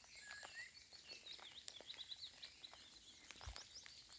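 Faint lakeside ambience: small birds chirping and twittering over a soft patter of raindrops, with a brief low bump about three and a half seconds in.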